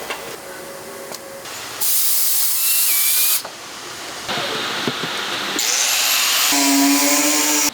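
A quick string of abruptly cut factory machine sounds: a loud hiss lasting a second and a half, other machine noise, then near the end a steady electric motor whine with a clear pitch.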